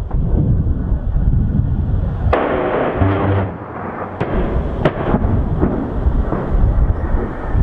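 Explosions rumbling heavily, with several sharp cracks and a brief lull a little past halfway.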